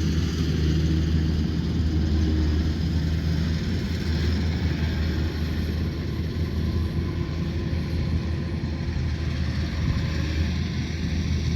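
Combine harvester engine running steadily under load, a constant low drone with a hiss of machinery above it.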